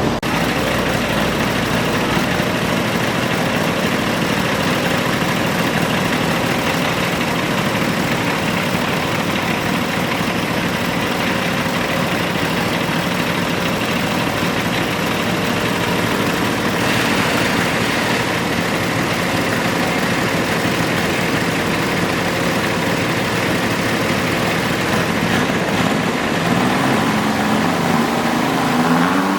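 Garden pulling tractor engine running steadily at a loud idle, its pitch starting to climb near the end as it revs up.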